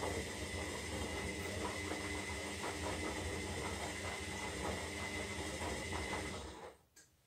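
Zanussi Lindo 300 washing machine running its wash, a steady motor whine over a fast run of clicks and knocks from the tumbling drum. The motor cuts off abruptly near the end, followed by a single click.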